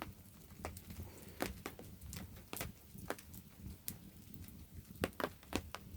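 Rain dripping and pattering on a tarp: scattered, irregular single taps at a few per second, faint, over a low steady background hush.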